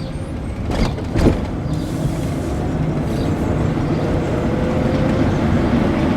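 Renault Twizy electric city car driving: steady road and tyre noise that grows a little louder, with a faint whine rising gently in pitch midway. Two sharp knocks come about a second in.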